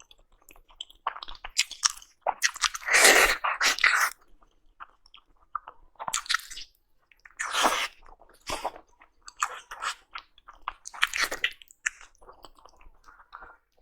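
Close-miked mukbang eating of Chinese food: irregular bouts of chewing and crunching, heaviest about three seconds in.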